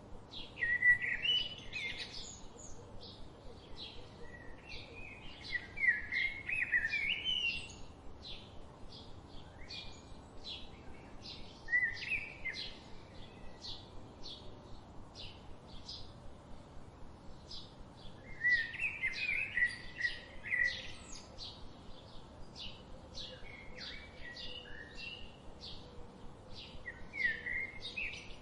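Wild songbirds singing: loud warbled phrases recur every few seconds, over a steady run of short, high chirps, about two a second.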